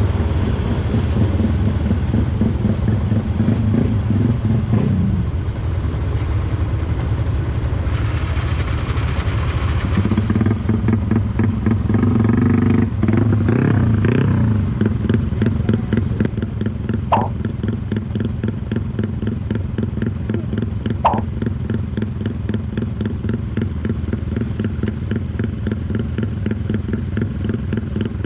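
Motorcycle with a loud exhaust, stopped close by, idling and being revved: the engine swells up and falls back a few times in the first half, then settles to a steady idle with a fast, even exhaust pulse. The exhaust note is called really punchy.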